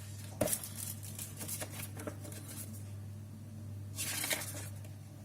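Paper leaflets and warranty sheets from a netbook's box being handled and rustled, with a light knock about half a second in and a longer rustle about four seconds in, over a steady low hum.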